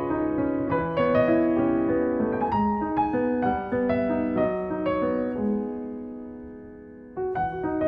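Background piano music: a gentle melody of many quick notes that fades down and picks up again with a fresh phrase near the end.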